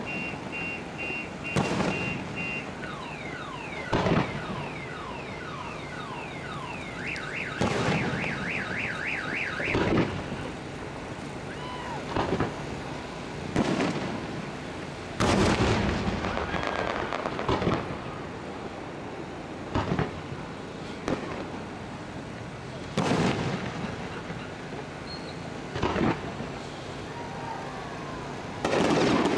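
Fireworks shells bursting in sharp bangs every couple of seconds, the loudest about halfway through. For the first ten seconds or so a car alarm runs through its cycle of beeps, sweeping whoops and a fast warble under the bangs.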